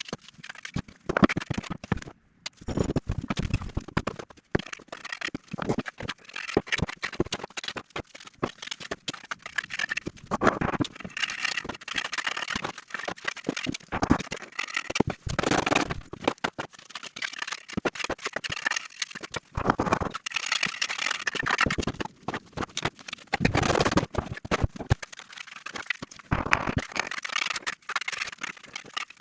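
Irregular scraping and knocking of hand masonry work with bricks and mortar: a steady run of scrapes, taps and clicks with louder knocks every few seconds.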